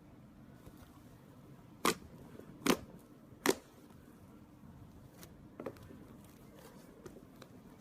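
Slime being handled: three sharp pops a little under a second apart, then a few fainter clicks.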